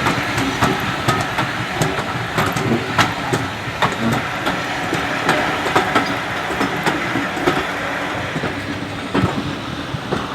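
Steam-hauled heritage train running along the line, its wheels clicking over rail joints amid steady running noise and sharp, irregular rattles.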